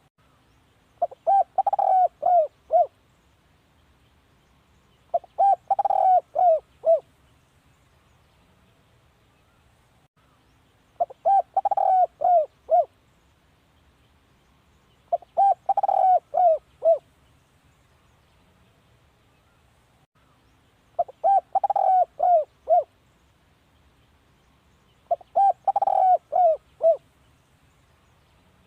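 Spotted dove cooing: six phrases, each a run of several short, arched coos, one phrase every four to six seconds.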